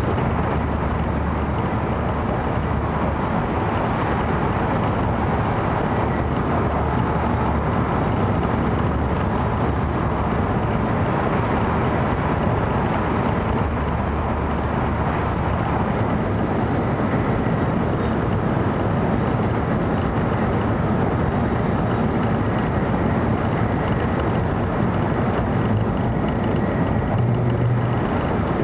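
Steady running noise of a 700 series Shinkansen train at speed, heard inside the passenger cabin: an even rush and rumble of wheels on rail and air along the body.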